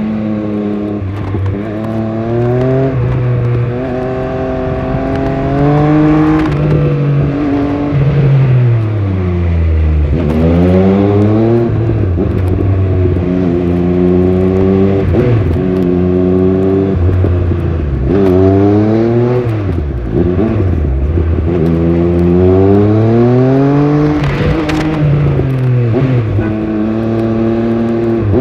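Triumph Speed Triple 1200RS's 1160 cc three-cylinder engine under hard acceleration from the rider's seat, pitch climbing in steps through quick gear changes. The engine note drops back twice, about 10 and 20 seconds in, before pulling up through the gears again.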